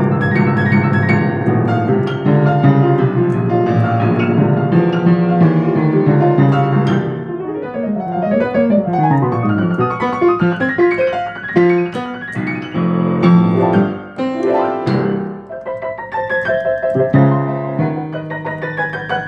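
Freshly tuned and regulated acoustic piano being played: full chords at first, then fast runs sweeping up and down the keyboard in the middle, then separate struck chords.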